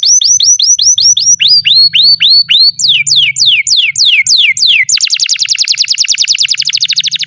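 Domestic canary singing a rapid, loud song in changing phrases. It opens with quick upswept notes, about five a second, then slower notes that sweep steeply downward, and about five seconds in breaks into a very fast, even trill.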